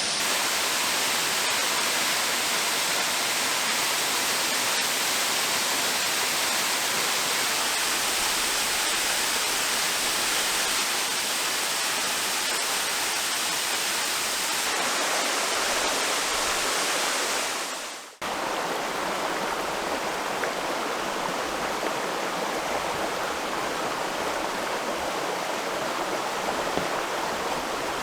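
Water from a small creek waterfall spilling and rushing steadily. About two-thirds of the way through, the sound fades sharply and cuts to a similar steady rush of running water with a little more low rumble.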